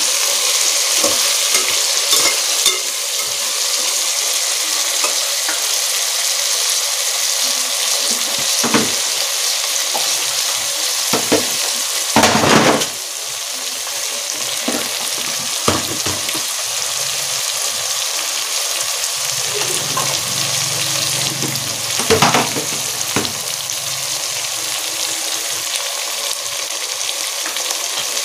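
Eggplant pieces with onion, tomato and garlic sizzling steadily in hot oil in a pressure cooker pot as they sauté. A spoon knocks and scrapes against the pot a few times while stirring, loudest about halfway through.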